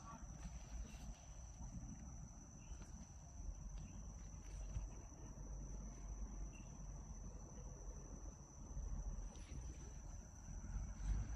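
Insects keeping up one steady, unbroken high-pitched drone, with a low rumble underneath.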